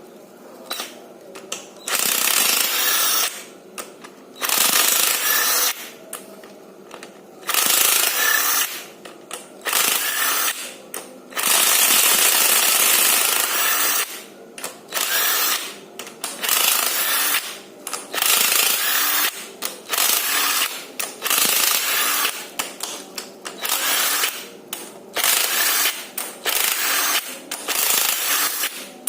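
Power impact wrench run in repeated bursts of one to three seconds, loosening bolts as the engine is stripped down.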